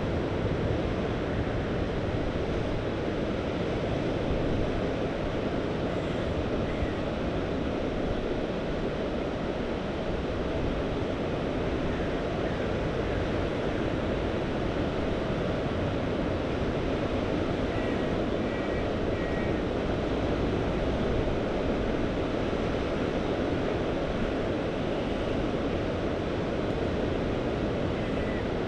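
Mediterranean sea waves washing steadily, with wind, in one even, continuous rush and no single wave standing out.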